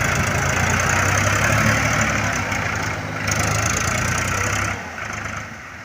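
Tractor diesel engine running hard under load. It dips briefly about three seconds in, picks up again, then drops back near the end.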